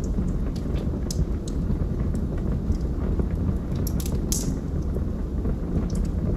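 Log fire burning: a steady low noise of the flames with scattered sharp crackles and pops, a quick cluster of them a little past the middle.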